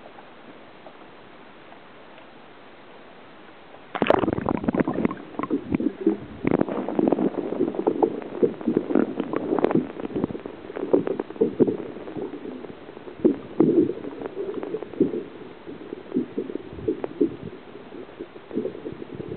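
Water sloshing and gurgling close to the microphone, starting suddenly about four seconds in and going on as irregular choppy splashes.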